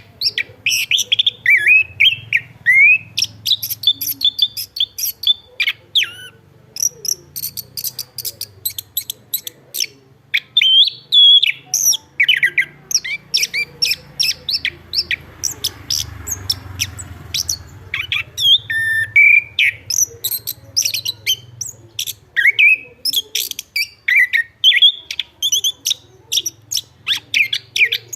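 Chestnut-capped thrush singing: fast, varied phrases of sharp chipping notes and gliding whistles, broken by a lull of a few seconds about halfway through.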